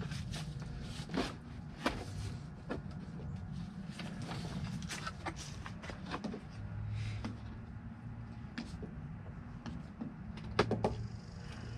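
Scattered clicks and knocks of hard plastic parts being handled and unclipped as a Dodge Ram's plastic heater box is taken apart, with a sharp double click near the end, over a steady low hum.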